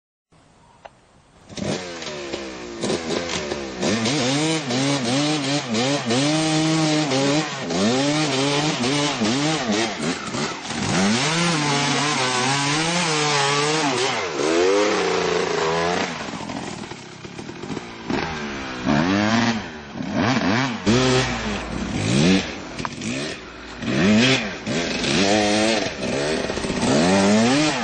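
Kawasaki KX250 single-cylinder two-stroke motocross engine revving up and down over and over, its pitch rising and falling with the throttle. It starts about a second and a half in and eases off for a few seconds past the middle.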